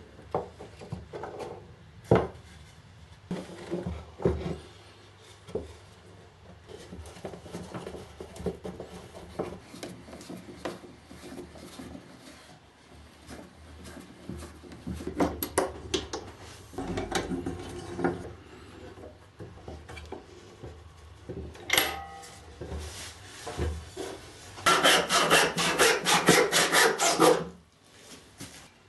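Hand tools working wood: irregular scraping strokes and a few sharp knocks, then near the end a fast, even run of back-and-forth strokes for about three seconds.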